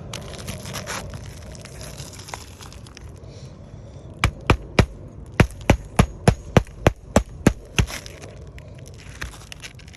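Hammer blows driving roofing nails into a replacement asphalt shingle: about a dozen sharp strikes at roughly three a second, three and then a short pause before the rest, starting a few seconds in after some low handling noise.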